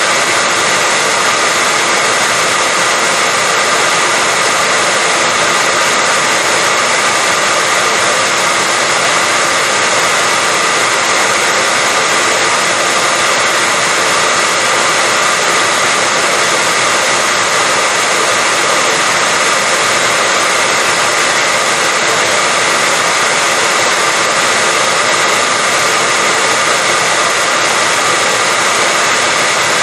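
Hair dryer running steadily: a loud, unbroken rush of air with a faint steady whine from its motor and fan.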